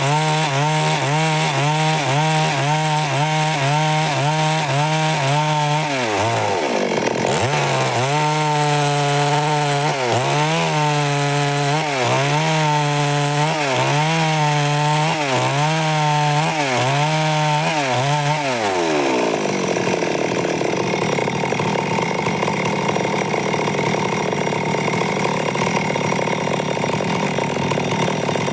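Stihl MS 382 two-stroke chainsaw running under load in wood, its engine pitch dipping and recovering about once a second as the chain bites. About two-thirds of the way in the pitch slides down and the sound turns rougher, without a steady note.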